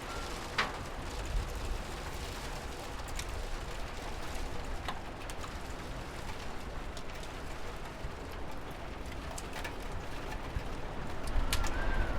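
Steady rain falling, with scattered sharp drip taps. A low rumble swells near the end.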